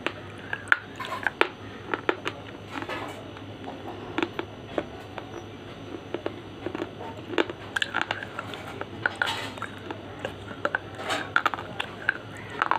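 Slate being bitten and chewed close to the microphone: irregular sharp crunches and clicks, several a second, with mouth noises between them.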